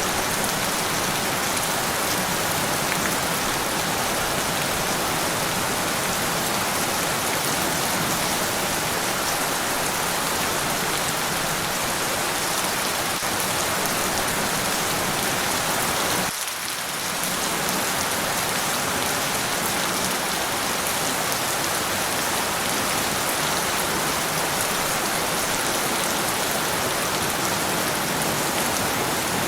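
Steady rain falling, an even dense hiss with pattering drops. The level dips briefly, for about half a second, just past halfway.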